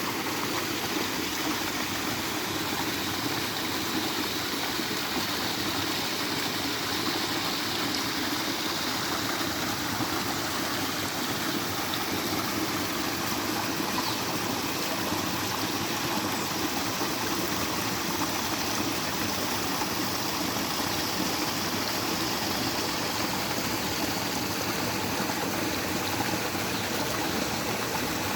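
Steady rush of flowing water, unchanging throughout.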